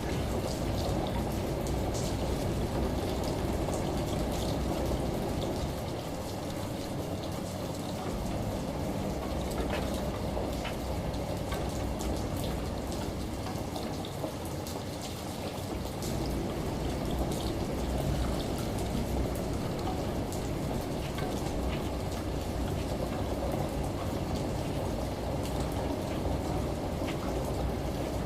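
Steady rain mixed with running shower water, with scattered drips, over a low rumble.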